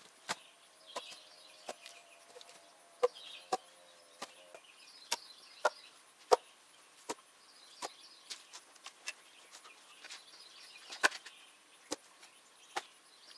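Split birch logs knocking against one another as they are laid onto a firewood stack: sharp wooden clacks at irregular intervals, one or two a second. A small bird sings a short phrase over and over in the background.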